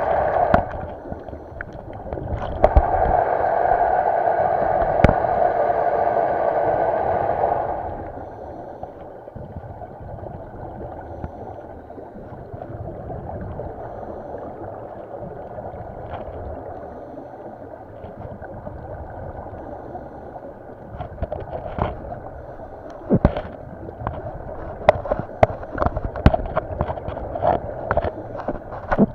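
Underwater bubbling of a scuba diver's exhaled breath, one loud burst of bubbles lasting about six seconds, then quieter water noise with scattered clicks and taps toward the end.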